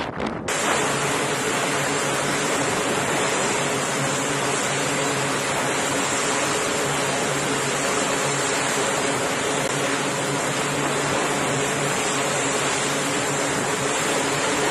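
Aircraft engine running steadily at high power: a loud, dense rush with a steady high whine and a low hum, starting abruptly about half a second in.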